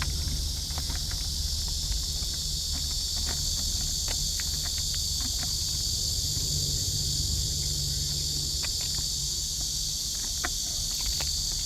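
A steady, high-pitched chorus of insects over a low rumble, with scattered faint clicks and ticks.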